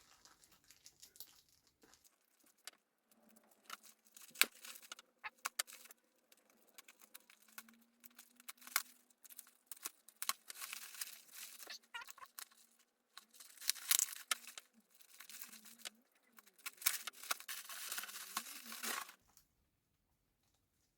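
A shipping package being torn open with a nail clipper: irregular ripping and crinkling of packaging with sharp clicks, stopping a couple of seconds before the end.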